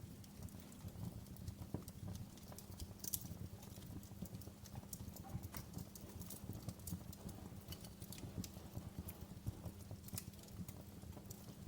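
Wood fire crackling in a fireplace: frequent, irregular sharp pops and snaps over a continuous low rumble of the flames.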